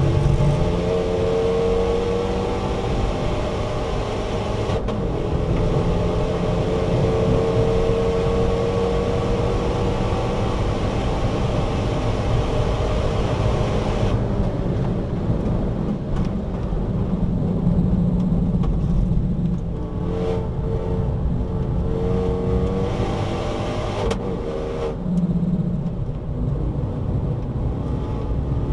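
Renault Megane RS Trophy's 2.0-litre turbocharged four-cylinder with an Akrapovič exhaust, heard inside the cabin under full throttle. It climbs through the revs with an upshift about five seconds in and pulls to around 6,000 rpm. About halfway it lifts off for braking, with short surges from downshifts near the end.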